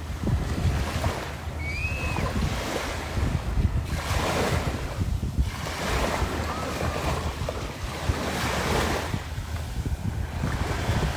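Waves washing onto a beach, the surf swelling and easing every couple of seconds, with wind buffeting the microphone.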